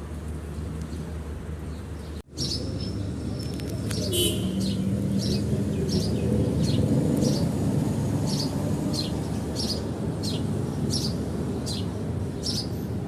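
A small bird chirping repeatedly: a short high chirp about every two-thirds of a second, starting about four seconds in, over a steady low background rumble.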